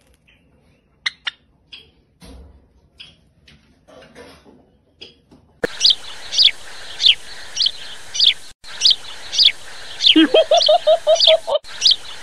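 Small birds chirping: a few faint, soft high chirps from a white Java sparrow, then louder, repeated high chirps, each sliding down in pitch, about two a second, with a short, faster run of lower notes near the end.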